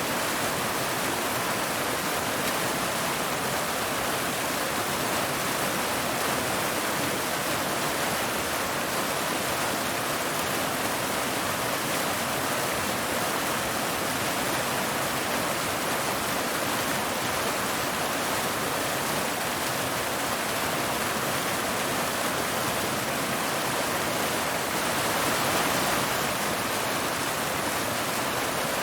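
Waterfall cascading over rocks: a steady, even rush of falling water, swelling slightly near the end.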